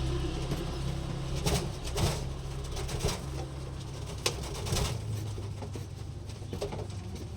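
Domestic pigeons cooing low and steady, with a few sharp clicks in the first five seconds, while a parent pigeon feeds its squab.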